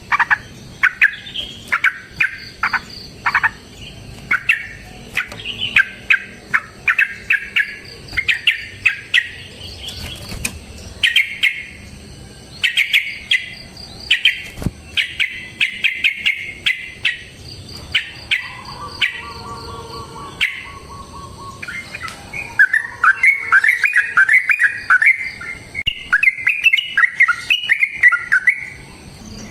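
Yellow-vented bulbul (trucukan) singing: short bubbly phrases repeated one after another, then a longer, faster chattering run of notes about two-thirds of the way in.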